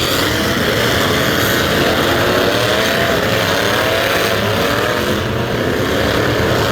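Several demolition-derby trucks' engines running hard and revving, a loud continuous mix with engine pitches wavering up and down.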